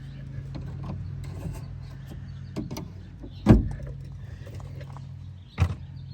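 Scattered clicks and knocks of metal parts being worked loose inside a car door during window regulator removal, with a louder knock about halfway through and another sharp one near the end, over a steady low hum.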